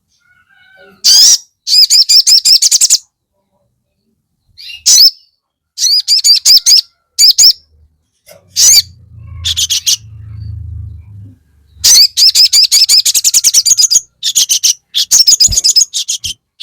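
Sogon bird singing in loud bursts of fast, rapidly repeated high chattering notes, each burst lasting from half a second to about two seconds, separated by short silences. A soft low rumble sits under the song around the middle.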